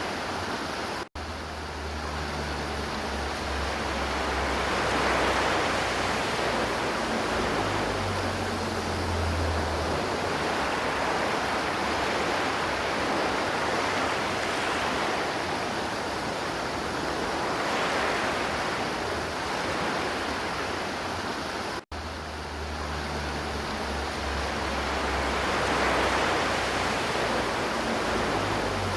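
River water rushing and flowing in a steady wash that swells gently every few seconds, with a low rumble underneath. The sound cuts out for an instant twice, about a second in and again some twenty seconds later.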